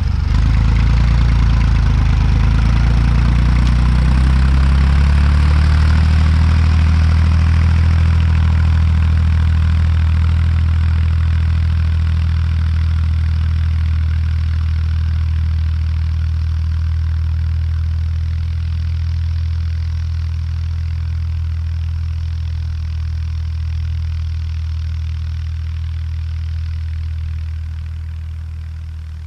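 Tractor engine running steadily while pulling a cultivator across a field. Its note shifts in the first few seconds, then holds steady as the sound slowly fades, more so near the end.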